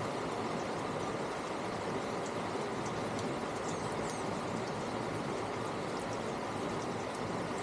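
Steady outdoor background noise, an even hiss-like rush, with a few faint, short, high chirps around the middle.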